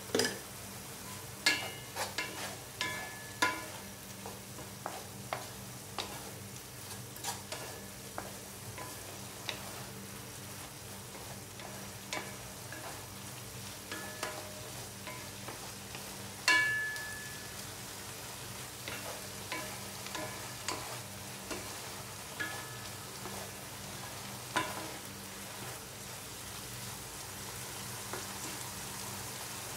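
Ground beef and bitter gourd sizzling in a nonstick wok as it is stirred, with wooden spatulas scraping and knocking against the pan in irregular clicks. The sharpest knock, about halfway through, rings briefly.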